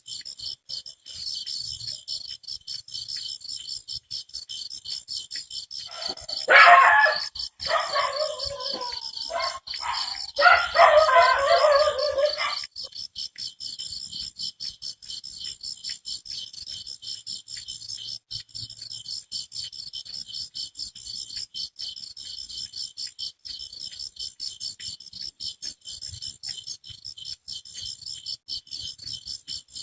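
Crickets chirping in a fast, steady pulsing trill. About six seconds in, dogs bark loudly for roughly six seconds.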